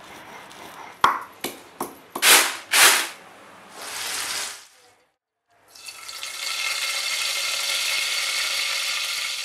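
A run of sharp knocks and short hissing bursts, then food frying in hot oil: a steady sizzle through the second half.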